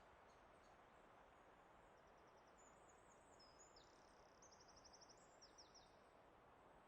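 Faint songbird chirps and quick trills, high-pitched, coming in about two seconds in and stopping near the end, over a steady faint background rush of natural ambience.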